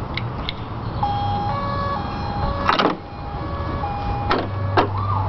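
Toy fire truck playing an electronic tune of held beeping notes, with a few sharp clicks. Just before the end, its wailing electronic siren starts up over a low hum.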